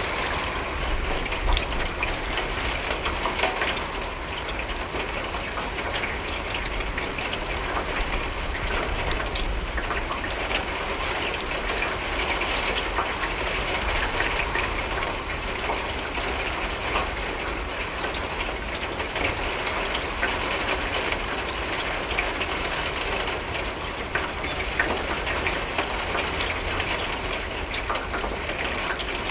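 Steady rain falling on a window: an even hiss of rain with many small drop hits, over a low rumble.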